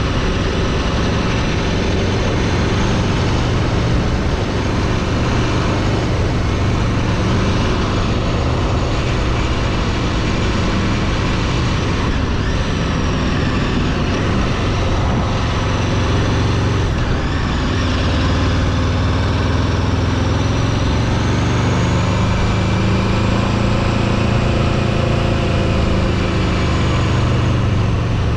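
A motor vehicle being driven: the engine runs steadily under a constant rush of road and wind noise, and its note climbs and falls a few times in the second half as the speed changes.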